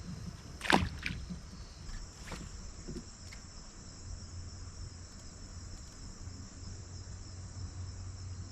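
Steady high-pitched chorus of insects, crickets or similar, droning throughout, with a few short sharp sounds in the first few seconds, the loudest under a second in.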